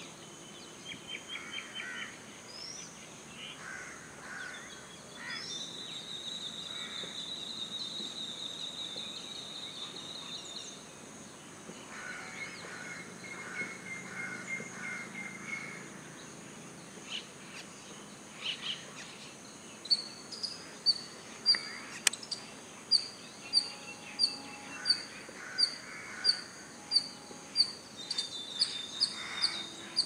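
Small wild birds calling outdoors: assorted chirps and a high trill held for several seconds, then a loud, sharp chirp repeated about three times every two seconds through the last third.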